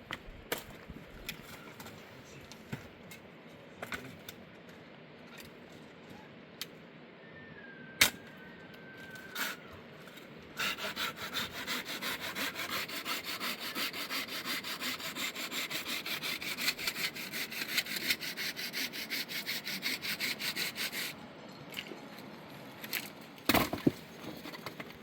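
Firewood being sawn by hand in quick, even strokes for about ten seconds in the middle, between scattered knocks of wood being handled, with one sharp knock near the end.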